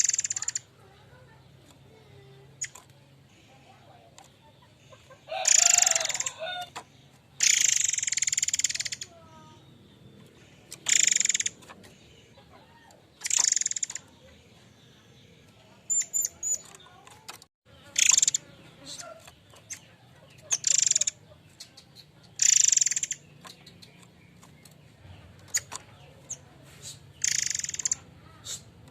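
Murai air mancur bird calling actively: loud, shrill, hissy whistled calls, each lasting about a second, repeated every two to four seconds, with a few faint short tweets between them.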